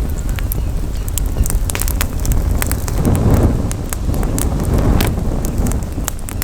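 Campfire crackling, with many sharp irregular pops and snaps, over a steady low rumble of wind buffeting the microphone that swells briefly about three seconds in.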